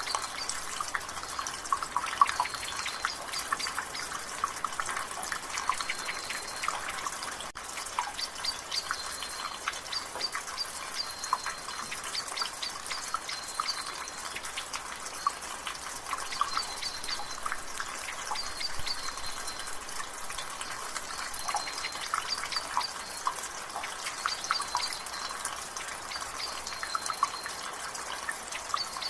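Water dripping from a rain gutter: many quick, irregular drips over a steady patter of rain.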